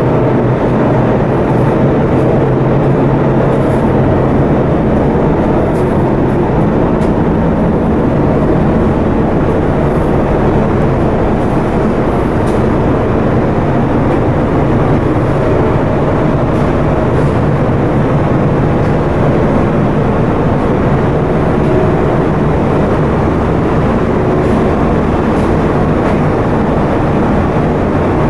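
A ship's diesel engine running steadily under way: a loud, continuous low drone with a steady hum.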